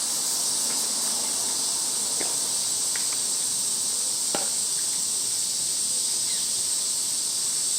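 A steady, high-pitched drone of insects, with one sharp knock about four seconds in and a few faint ticks.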